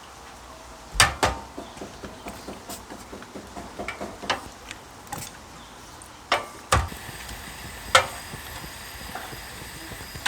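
Camp cookware and utensils being handled while cooking: scattered sharp knocks and clinks, the loudest about a second in and again near the end.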